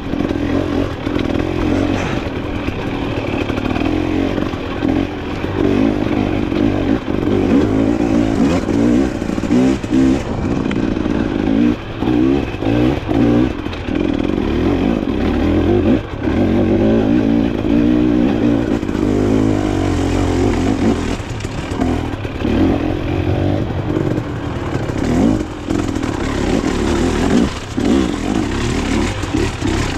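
Dirt bike engine running under way off-road, revving up and falling back with the throttle, with a few brief drops where the throttle is shut, over rattling and clatter from the bike.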